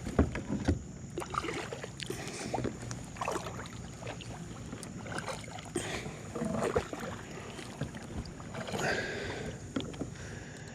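Small fishing boat drifting on a pond: irregular knocks, rustles and water swishes from the hull and gear.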